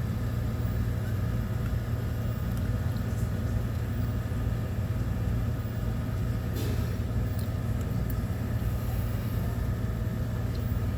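Steady low rumble, with a brief faint hiss about six and a half seconds in.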